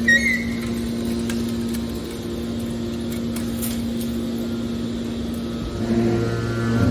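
Hydraulic metal baler's power unit running with a steady hum, after a brief high squeak at the start. About six seconds in a deeper hum joins and it grows louder, as the machine takes on load.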